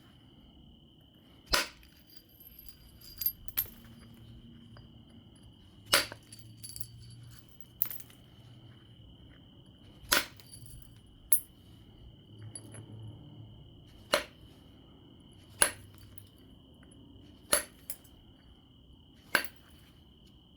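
Flakes being detached from an obsidian biface during flintknapping: sharp, glassy clicks, about seven loud strikes a few seconds apart with a few fainter ticks between them. A steady high tone runs underneath.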